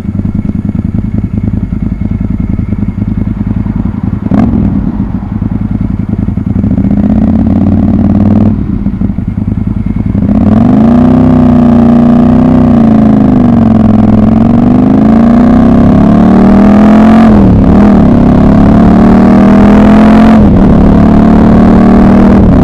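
Ducati 748's L-twin engine running steadily at low revs, with a single sharp click about four seconds in. About ten seconds in it gets louder as the bike pulls away under throttle. The pitch climbs and dips with the throttle and drops sharply twice near the end at gear changes.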